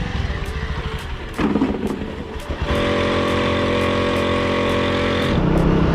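Motorcycle engine running at idle, with a loud, steady, evenly pitched drone that starts suddenly about two and a half seconds in and cuts off shortly before the end.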